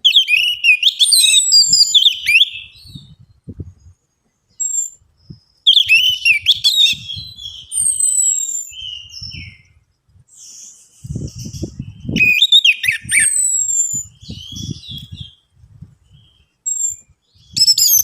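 Orange-headed thrush singing in quick, varied bursts of high warbling phrases mixed with clear downward-sliding whistles, with short pauses between them. Low rustling thumps run alongside, heaviest about eleven to thirteen seconds in.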